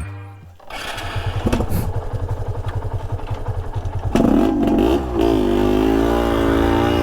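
Yamaha RX two-stroke single-cylinder motorcycle engine idling with a fast, even putter, then revved up about four seconds in and kept running at higher, wavering revs.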